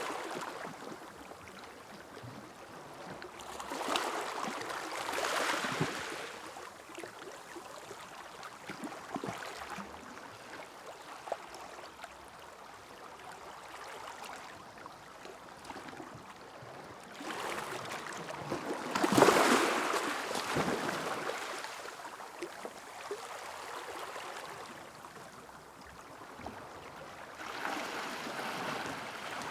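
Sea waves washing onto a beach: a steady hiss of surf that swells three times, the loudest surge about two-thirds of the way through, then ebbs back.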